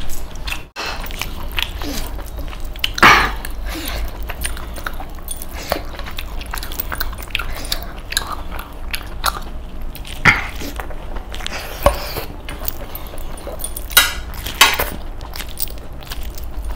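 Close-up chewing and biting of masala chicken leg pieces eaten by hand, with wet mouth smacks at irregular intervals, several of them sharp and loud.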